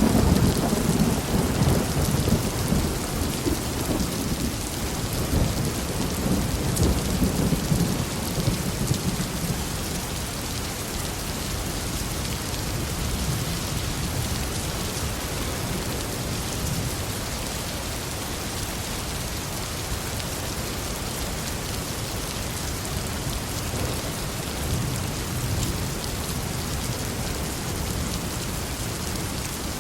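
Heavy rain falling in a steady hiss, with a low thunder rumble through the first several seconds that dies away, leaving the rain alone.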